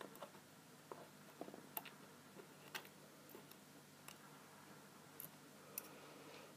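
Faint, irregular small clicks and taps of a padlock and lock-picking tools being handled, against near silence.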